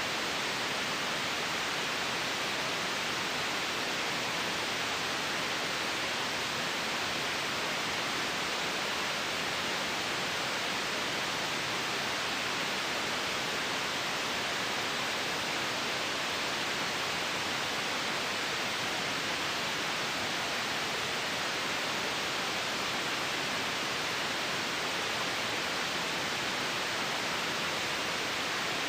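Steady white noise for sleep: an even, unchanging hiss with most of its energy in the upper middle and treble and little bass.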